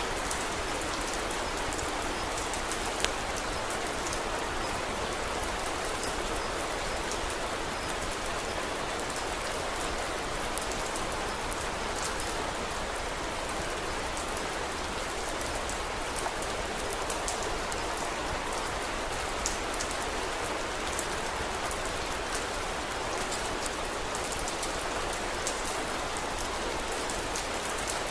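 Steady rain falling, an even hiss throughout, with scattered sharp crackles and a few louder pops from a wood fire.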